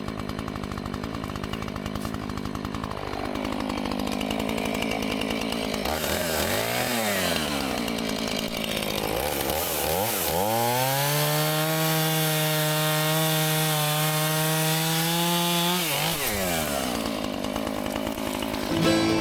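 Chainsaw idling, revved up and down twice, then held at high revs for about six seconds before dropping back to idle.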